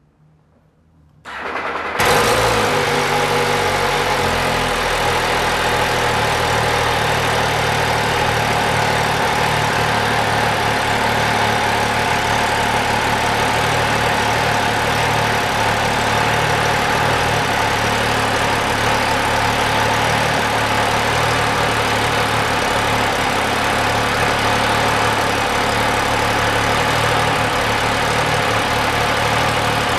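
MV Agusta Dragster 800 RR's 800 cc inline three-cylinder engine being started: the starter turns briefly, the engine catches about two seconds in, and then it idles steadily.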